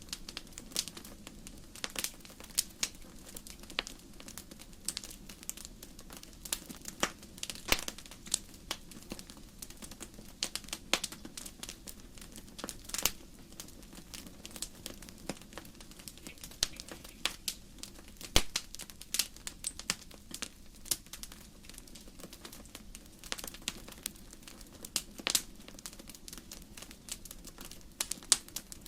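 Firewood burning in a fireplace, crackling with irregular sharp pops and snaps, several a second at the busiest, over a steady low rumble.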